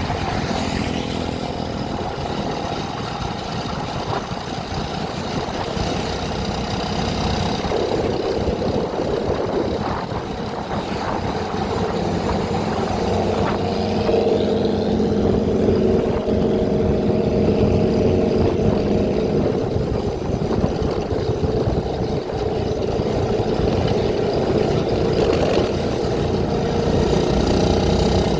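Vehicle engine running steadily with road noise while driving, its note growing louder about eight seconds in and again about halfway through.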